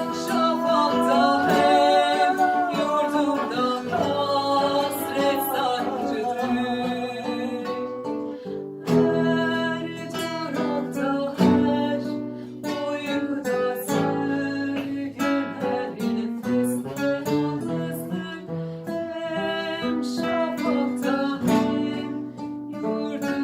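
Acoustic guitars playing, with a voice singing a long wavering line over them for the first several seconds. From about nine seconds in, the guitars carry on alone with steady strummed chords.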